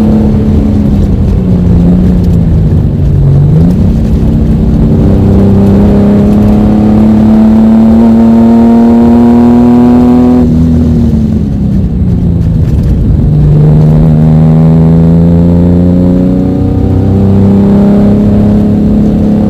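Ford Mustang V6 engine heard from inside the car, running hard with its pitch climbing slowly. The revs dip briefly about three seconds in, fall away about ten seconds in, then build again.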